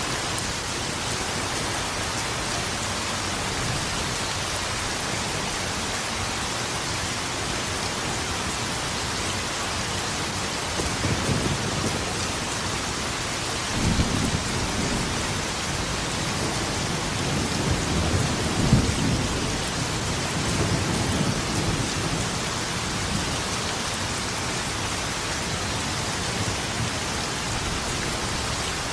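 Steady heavy rain falling, with thunder rumbling in the middle: a first roll about 11 seconds in, then a longer stretch of rolling thunder with a sharper crack near the end of it.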